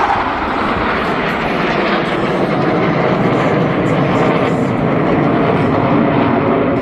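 Steady, loud jet noise from Blue Angels F/A-18 Super Hornets flying their airshow demonstration.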